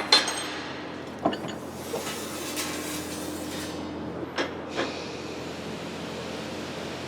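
Steel sheet parts being bent in a metal-bending machine: several sharp metal knocks and clanks over a steady machine hum, with a steady tone for a couple of seconds in the middle.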